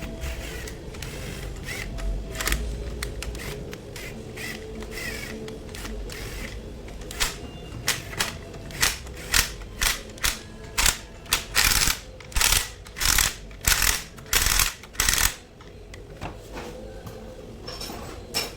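Mechanical work on a gearbox: a rapid run of short, sharp noisy bursts, about two a second, lasting some eight seconds in the second half, over a low steady background.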